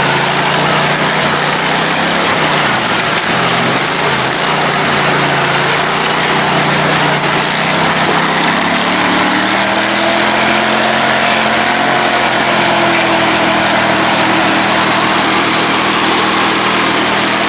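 Modified lifted lawn tractor's engine running hard on a trail ride. Its pitch sags about three seconds in, then climbs again around eight to ten seconds in and holds steady.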